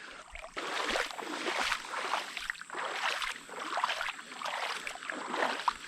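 Water splashing and sloshing in irregular bursts, as of someone wading through a shallow river.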